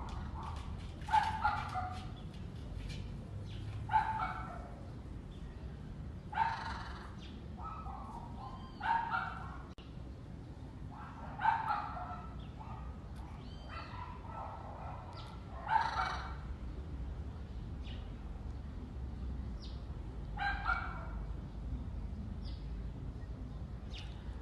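An animal's short, loud calls, repeated every two to three seconds.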